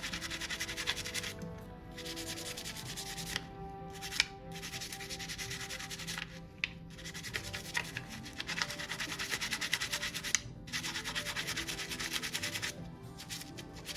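Rapid rhythmic rubbing strokes, back and forth, in several runs of a few seconds each with short pauses between them.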